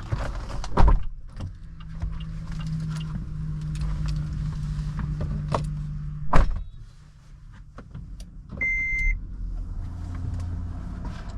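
An electric motor in an MG Hector Plus runs with a steady hum for about five seconds and stops with a loud thud as the powered panel shuts. About two seconds later comes a single short electronic beep, then a low steady hum.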